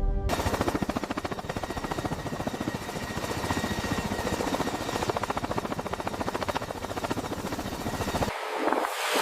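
Fast, even mechanical chopping noise that starts abruptly as music cuts off. About eight seconds in, its deep part drops away and it turns to a rougher crackle.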